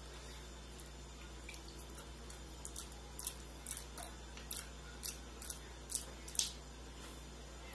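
Wet, smacking chewing of a soft mouthful of banana with ketchup and mayonnaise. From about the middle on, a string of short clicks comes roughly twice a second.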